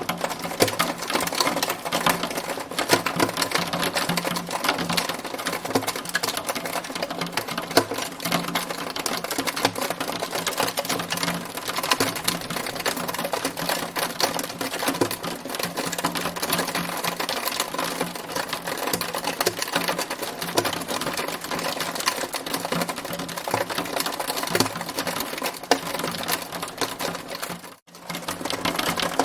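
Hailstones pelting a hard surface in a dense, continuous clatter of countless small impacts. The sound drops out for a moment near the end, then resumes.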